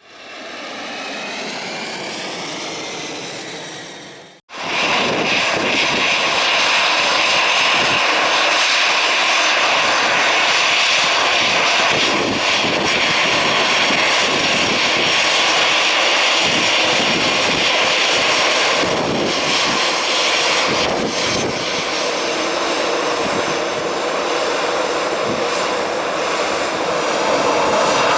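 Airbus A321-211 jet airliner departing under takeoff thrust, its CFM56 turbofans making a loud, steady rushing noise. The noise comes in abruptly about four and a half seconds in, after a few seconds of a quieter sound with sweeping tones that cuts off.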